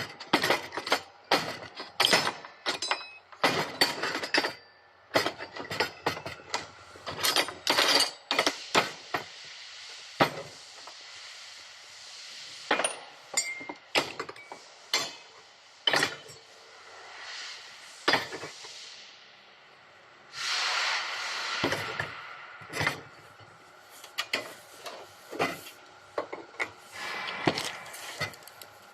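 Irregular clinks and knocks of metal parts being handled and struck, with a short steady hiss about two-thirds of the way through.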